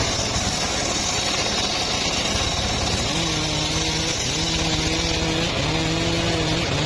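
Engine-driven saw running under load while cutting mahogany. For the first few seconds it is a dense cutting noise; after that the engine tone steadies and dips briefly about every second.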